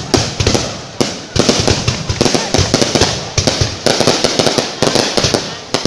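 Aerial fireworks bursting close by: a rapid, continuous series of sharp bangs and crackles, several a second, each followed by a low rumbling echo.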